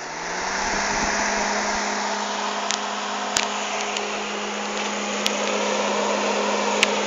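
Homemade fan driven by a microwave oven's cooling-fan motor starting up: its hum rises and settles within the first half second. It then runs steadily, with a constant hum over a rush of air, and a few light clicks.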